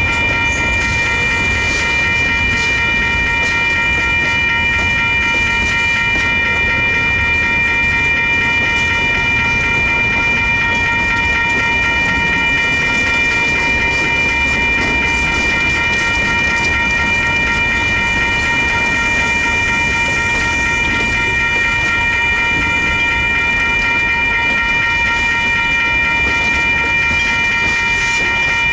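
Freight train of tank cars and boxcars rolling through a grade crossing: a steady rumble of wheels on rail. Over it runs an unbroken ringing of several high tones from the crossing's warning bell.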